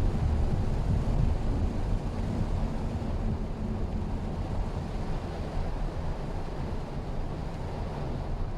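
Mitsubishi Xpander driving on a wet road in the rain: a steady low road-and-engine rumble with tyre hiss, easing slightly after about two seconds.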